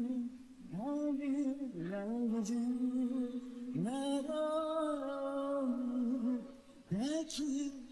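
A man's voice singing slow, long held notes, sliding up into each one, with nothing else audible behind it.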